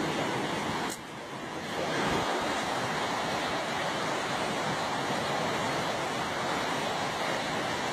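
Steady rushing noise of heavy rain falling, which dips briefly about a second in and then builds back.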